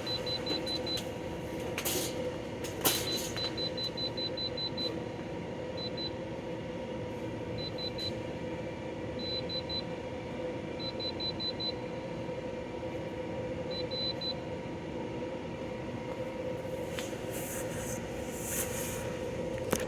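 Portable air conditioner running steadily on full blast, a constant fan and compressor hum. Short bursts of rapid high-pitched electronic pips recur through most of it, with a couple of sharp clicks a few seconds in.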